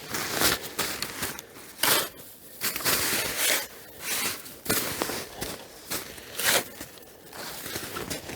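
Snow crunching and scraping in a string of short, irregular strokes as snow is worked around a snow-grave shelter.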